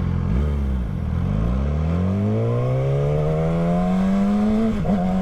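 Motorcycle engine pulling away from idle: the revs rise steadily for about four seconds, dip briefly near the end at a gear change, then hold steady.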